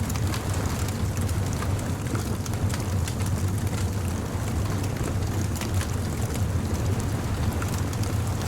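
Bonfire crackling, with frequent sharp pops and snaps over a steady low rumble.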